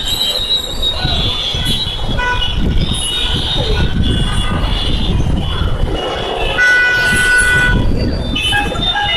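Congested road traffic with many vehicle horns honking over one another above a steady engine rumble. One horn is held for about a second, near seven seconds in.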